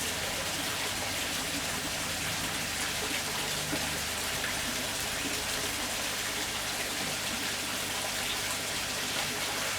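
Steady splashing of falling water, an even hiss with no breaks.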